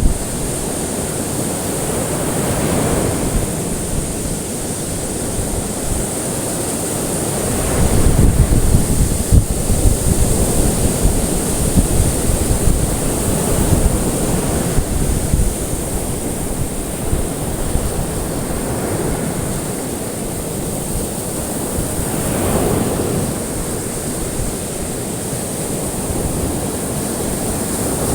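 Ocean waves washing and breaking in a continuous rush that swells and ebbs every several seconds, loudest around eight to ten seconds in.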